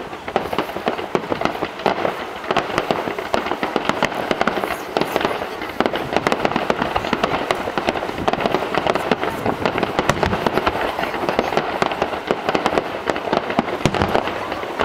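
Fireworks display: a dense, unbroken barrage of shells bursting and crackling in rapid succession.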